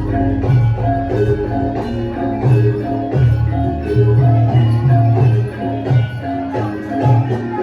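Javanese gamelan music: metallophones strike short, rapidly repeating melodic notes over a deep, steady low part that thins out about three seconds in.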